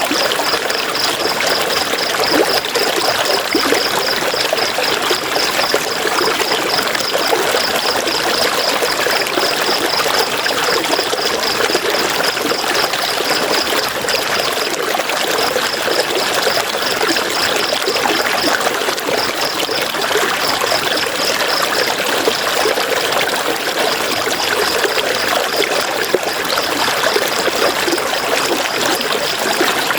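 River water flowing and splashing over rocks, a steady rushing and trickling. Above it a high, rapid, evenly pulsed chirping repeats several times a second, pausing briefly a few times.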